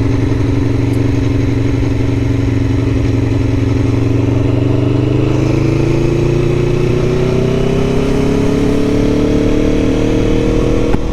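Aprilia Tuono motorcycle engine running under way, holding a steady pitch for about five seconds and then climbing slowly in pitch as the bike accelerates.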